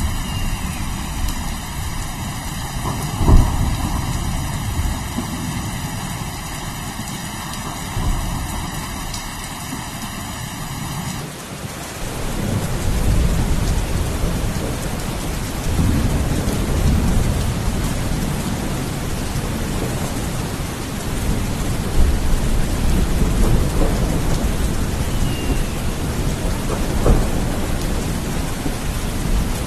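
Steady heavy rain with several thunder rumbles, the loudest about three seconds in. About eleven seconds in, the rain's sound changes abruptly, as at a splice between recordings.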